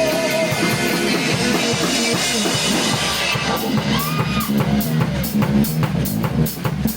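Live band playing an instrumental passage between sung lines: held chords at first, then a steady drum-kit beat with kick and snare, over a bass line, comes in about four seconds in.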